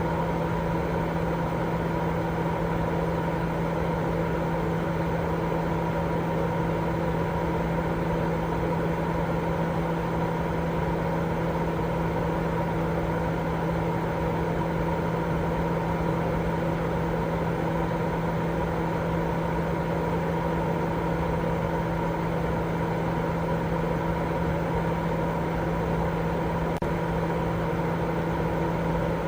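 Continuous sleep-aid noise: an even, unchanging rush with a steady low hum running through it, much like a machine or engine drone.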